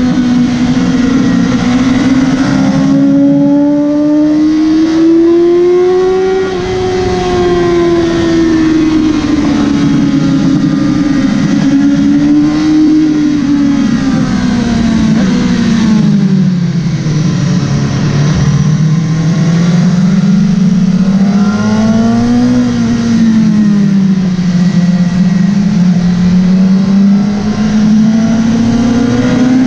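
Motorcycle engine running hard at high revs on a race track, its pitch rising and falling with the throttle, with a deep dip around the middle.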